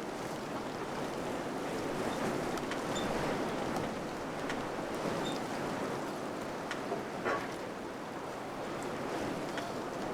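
Wind blowing steadily through a village, a constant rushing with scattered faint ticks and a slightly louder click about seven seconds in.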